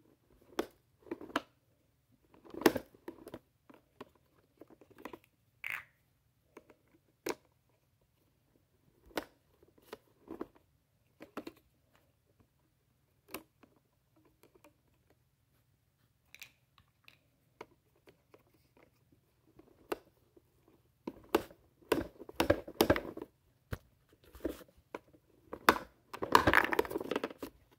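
Plastic toy garbage truck and small toy bins clicking and clattering as they are worked by hand: scattered sharp clicks at first, then a denser run of knocks and rattles near the end.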